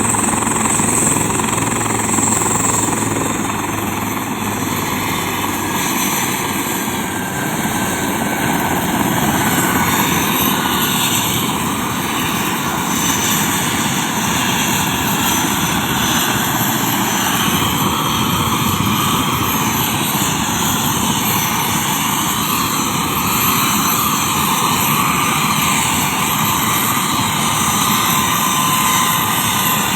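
Helicopter running, its rotor blades chopping steadily over the engine noise.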